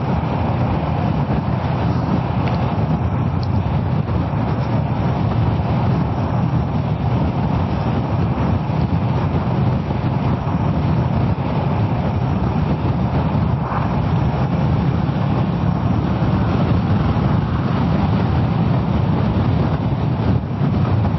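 Kawasaki ER-6f motorcycle's parallel-twin engine running steadily under way, mixed with wind and road rush.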